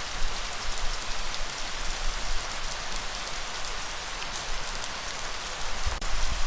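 Steady rainfall: a dense hiss of drops with occasional sharper individual drop hits, over a low rumble.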